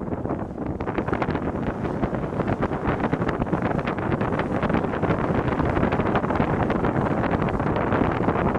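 Wind buffeting the microphone, a steady loud rush with crackling gusts.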